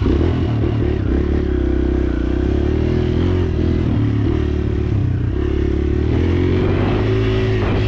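Kawasaki KLX140L dirt bike's small single-cylinder four-stroke engine running under way close to the microphone, its revs rising and falling again and again as the throttle is worked.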